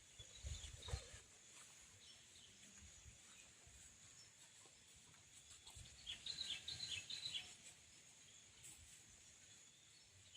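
Faint forest ambience: a bird gives a quick run of short high chirps about six seconds in, over a steady faint high hiss, with a few soft low thumps near the start.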